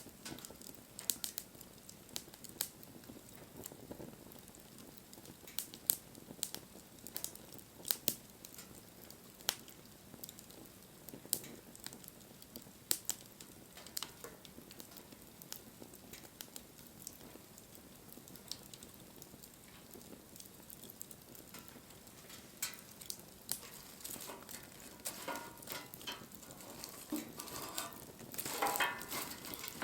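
Wood fire burning, crackling with irregular sharp pops. Near the end the crackling thickens into a brief run of sizzling and hissing.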